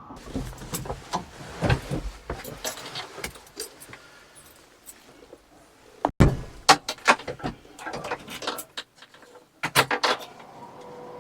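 Irregular clicks, knocks and rattles of something being handled, with a sharp knock about six seconds in and another cluster near the end.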